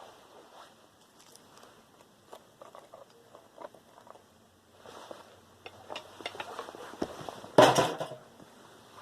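Small metal computer parts and tools handled on a workbench during motherboard dismantling: scattered light clicks and taps, then a louder clatter lasting about half a second near the end.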